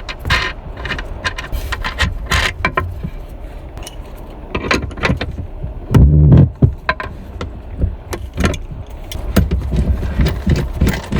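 Clicks, knocks and light rattles of objects being handled over a steady low rumble, with one heavy thump about six seconds in.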